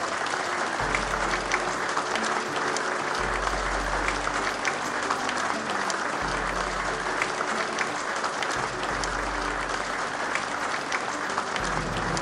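Steady applause, many hands clapping, over background music with low sustained bass notes.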